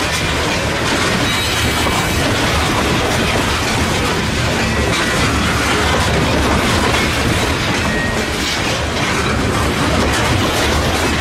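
Covered hopper cars of a freight grain train rolling past: steady noise of steel wheels running on the rails.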